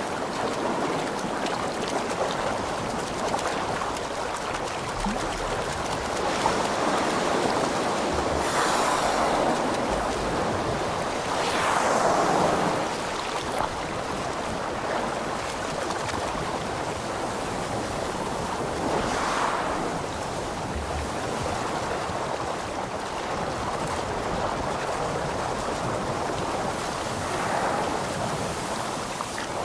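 Ocean water rushing and splashing, swelling up about four times and easing off between.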